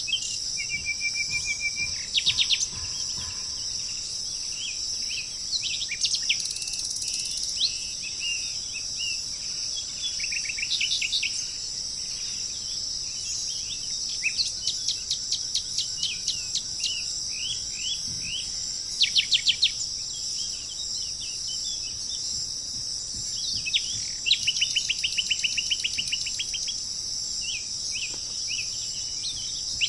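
Several birds chirping and trilling in short, rapid series of notes over a steady high-pitched drone of insects.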